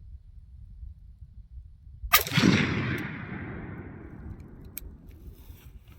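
A single gunshot about two seconds in, a sharp crack followed by a long rolling echo that dies away over a couple of seconds.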